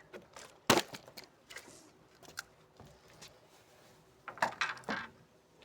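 A few sharp clicks and knocks: one loud knock under a second in, then a quick cluster of clicks near the end.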